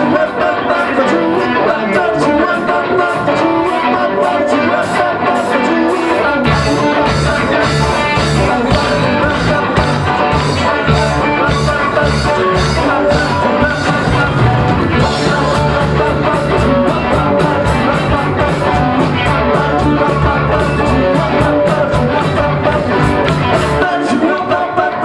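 Rock band playing live: electric guitar, bass and drums with cymbals, and singing. The bass and drums come in much heavier about six seconds in, and the low end thins out near the end.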